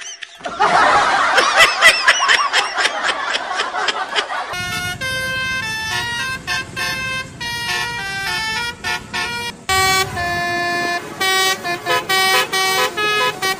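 Multi-tone telolet bus horn of the Basuri kind playing a quick tune of short steady notes, starting about four seconds in. Before it, a warbling tone wavers rapidly up and down in pitch.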